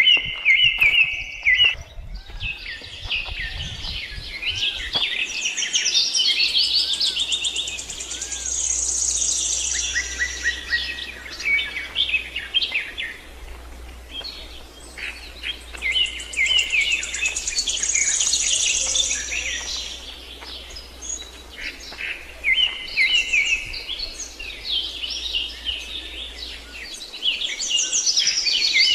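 Several birds calling and singing at once, with repeated chirps and quick trills overlapping throughout. A steady low hum sits under them from a few seconds in until near the end.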